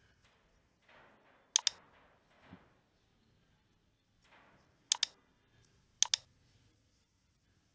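Computer mouse clicking: three quick double-clicks, spaced a few seconds apart, with faint soft rustling between them.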